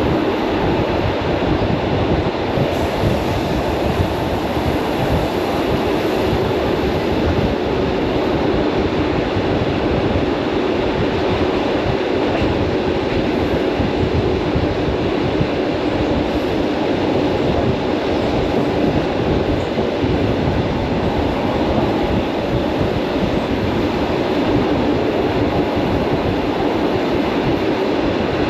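Suburban electric train running steadily at speed, heard from inside the carriage: an even rumble of wheels on rails with a faint steady hum.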